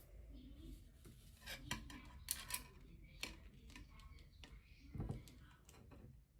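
Small plastic Lego pieces clicking and clattering as they are handled and snapped together, with a quick run of sharp clicks a couple of seconds in and a duller knock about five seconds in.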